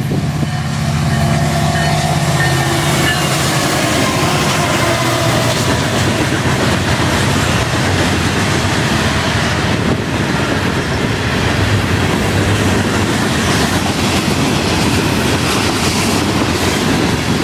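Two EMD SD70M-2 diesel-electric locomotives, each with a 16-cylinder two-stroke engine, pass at full throttle. Their engine drone dips slightly in pitch and fades over the first few seconds. Then comes the steady, loud rumble and clickety-clack of freight-car wheels on the rails.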